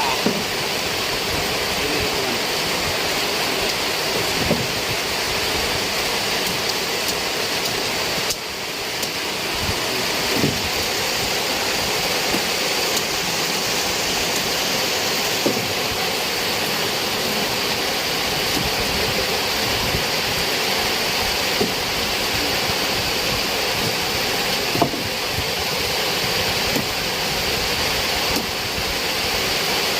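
Heavy rain falling steadily, with a few louder drops or taps standing out now and then.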